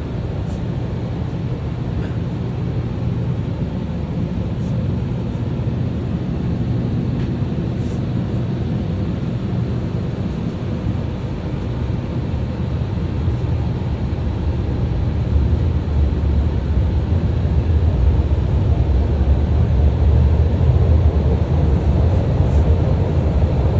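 Steady low rumble of a moving vehicle, growing louder about two-thirds of the way through.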